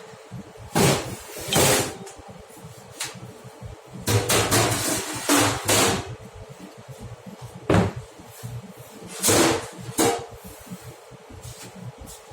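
Kitchen clatter: about eight separate knocks and bangs, like cupboard doors, trays and utensils being handled, over a faint steady hum.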